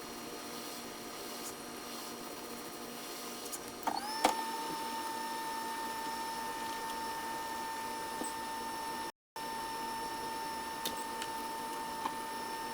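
Hot air rework station fan whining steadily. About four seconds in, after a couple of clicks, its pitch slides up and holds at the higher speed.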